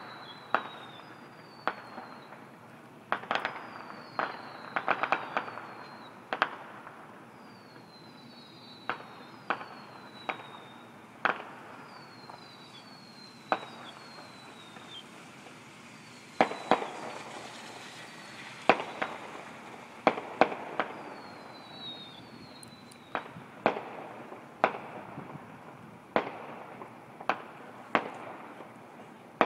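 Fireworks display: irregular sharp bangs of bursting shells every second or two, some in quick clusters, with groups of short whistles falling in pitch between them.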